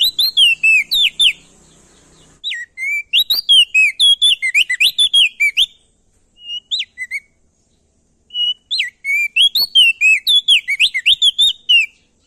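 Crested dark-eye (opior jambul, also called prenjak daun) singing: loud, rapid phrases of sharply sweeping high notes in three bursts with short pauses between.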